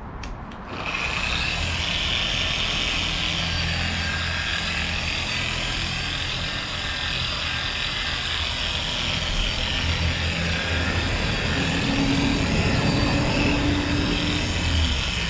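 An electric power tool starts up about a second in and runs steadily with a high whine and a low hum, after a few sharp clicks.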